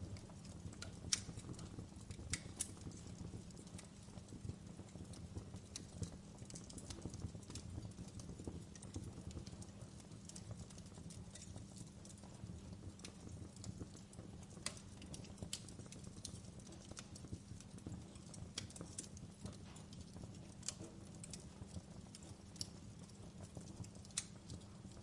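Wood fire in a fireplace crackling: irregular sharp pops and snaps over a low steady rumble, with the loudest pop about a second in.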